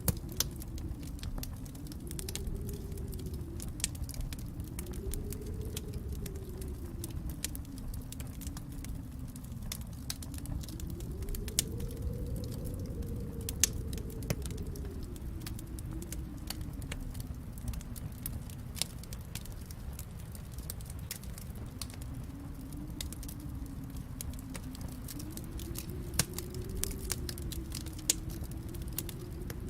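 Wood fire crackling in a fireplace, a steady stream of small snaps with a few sharper pops, over a low storm wind whose pitch slowly rises and falls.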